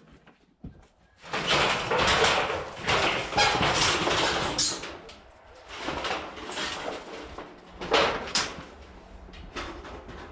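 Plastic tarp being handled and pulled into place, rustling and crinkling. There is a long stretch of it a second or so in, then two shorter bursts.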